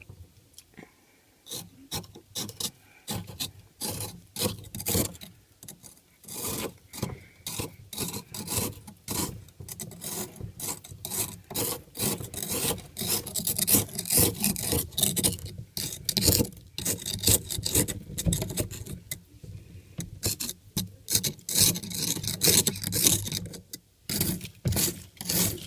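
Ice being scraped off the frost build-up inside an old mini fridge, in quick, repeated rasping strokes that start after about a second and a half.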